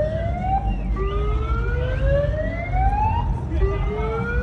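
Siren sounding in repeated rising sweeps, each climbing in pitch for about two seconds and then dropping back, over a low rumble.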